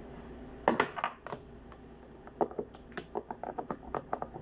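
Light plastic clicks and taps, a spoon working a thick smoothie mixture in a blender jar to free food stuck at the bottom. There is a cluster of sharper knocks about a second in, then a run of quick light clicks, about three or four a second.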